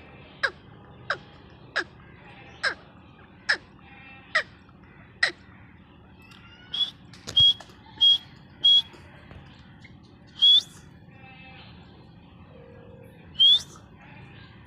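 Partridge calling: a run of short, sharply falling calls about one every 0.8 s, then from about halfway through, louder calls ending on a short held high note, five of them spaced a second or more apart.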